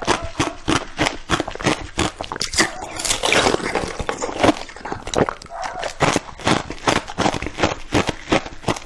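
Close-miked eating sounds of a person biting and chewing red, translucent dumpling-shaped pieces: a rapid run of sharp, wet clicks about three or four a second, with a denser, noisier stretch around three to four seconds in as a fresh bite is taken.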